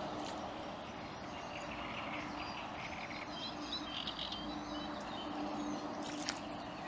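Small birds chirping and twittering over a steady outdoor background noise, with a faint low hum that comes and goes.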